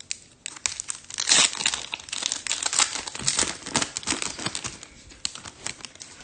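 A foil trading-card pack wrapper being torn open and crinkled, an irregular crackling that is loudest in the first couple of seconds and tapers off.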